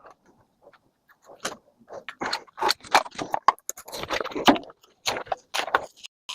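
Irregular clinks and clatter of small metal tools and parts being handled and moved about, as in rummaging for a razor knife.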